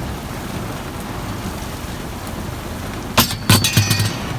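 Steady hiss of rain, then a quick run of loud metallic clanks and knocks about three seconds in, some of them briefly ringing.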